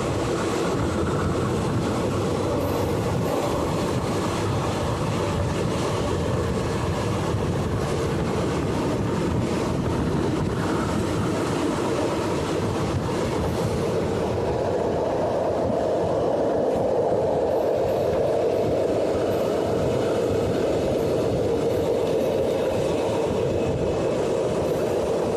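Indian Railways passenger train running along the track, a steady rumble of wheels on rail, with a drone that grows a little stronger past the middle.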